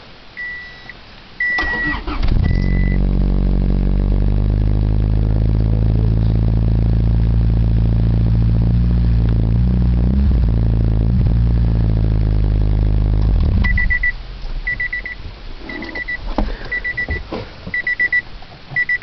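1995 Honda Civic with a glass-pack muffler cold-starting: a short crank, the engine catches about two seconds in and idles steadily, with a slight blip in revs around the middle, then it is shut off suddenly. The car's warning chime beeps before it starts and keeps beeping in a regular pattern after shutoff.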